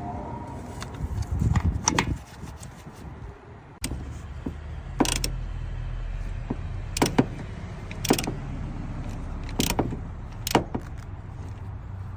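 Hand tools and small metal parts clinking and clicking while a coolant temperature sensor is swapped: about six sharp clicks spaced a second or more apart, over a steady low hum that starts suddenly about four seconds in.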